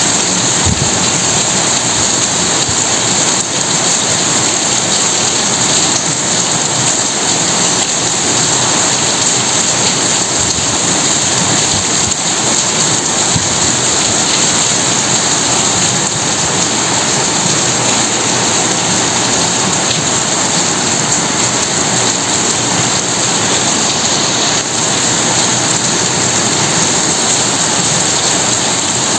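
Steady rain falling in an even, unbroken hiss, loud throughout.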